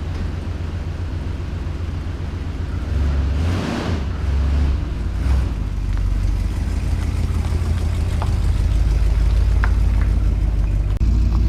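Old Chrysler police car's engine running with a deep steady rumble, with a short surge of revs about three and a half seconds in and another about five seconds in, getting a little louder toward the end.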